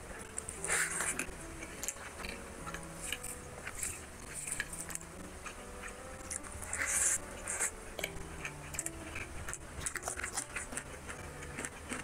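Close-miked chewing and wet mouth clicks of someone eating rice and curry by hand. There are two louder noisy bursts, about a second in and about seven seconds in, over soft background music of slow held notes.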